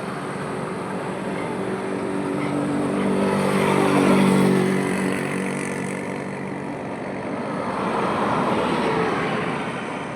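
Highway traffic passing over a steady rush of road noise. One vehicle with a clear engine note goes by close, loudest about four seconds in, and a second vehicle passes about eight seconds in.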